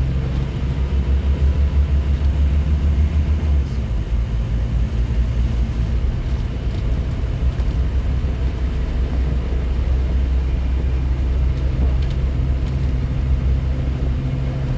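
Scania N230UD bus's diesel engine running, pulling harder for about the first four seconds, then easing to a lower steady drone and building again near the end.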